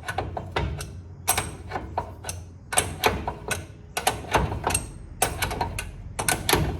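Metal hand tools clinking and knocking against the truck's front suspension parts: sharp, ringing clicks in quick irregular clusters.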